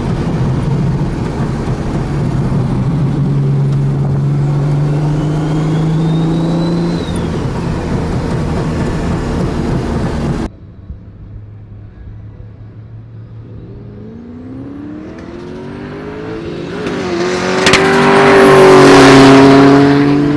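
Car engine running steadily, cutting off abruptly about ten seconds in. Then another car engine revs up and accelerates hard, rising in pitch and loudest near the end.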